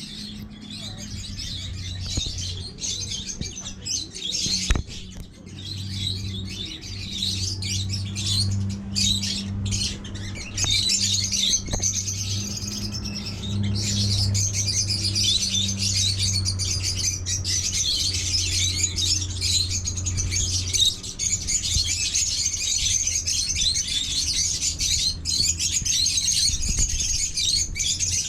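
A dense chorus of many birds chirping and squawking together without pause. A low steady hum sits underneath and fades out about two-thirds of the way through.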